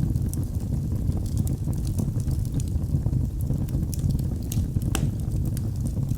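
Wood fire crackling in a fireplace: scattered sharp snaps and pops over a steady low rumble of the flames, with one louder pop about five seconds in.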